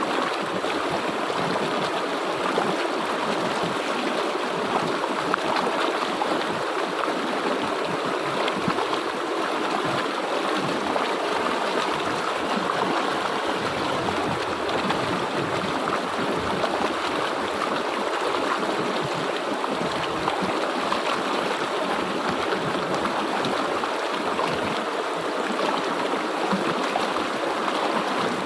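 A stream or river flowing steadily, a constant rushing and gurgling of water over stones.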